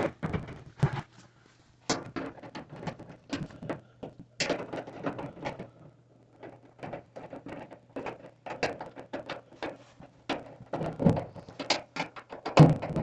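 Irregular clicks and scrapes of a screw being worked in by hand with a Phillips screwdriver at the bottom of a dryer's sheet-metal cabinet, over a faint steady low hum.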